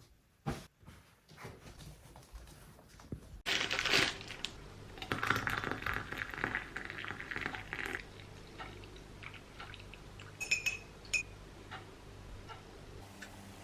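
Household kitchen sounds: a few light clicks, then a few seconds of liquid pouring or running, then two or three short clinks of crockery near the end.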